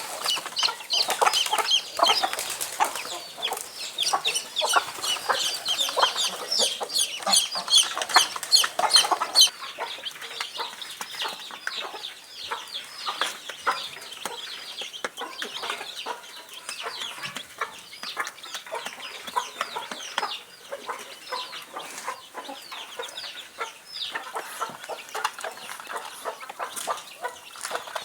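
A flock of kienyeji (indigenous) chickens clucking and chirping as they feed, with many short clicks among the calls. The calls are busiest and loudest for about the first ten seconds, then thin out.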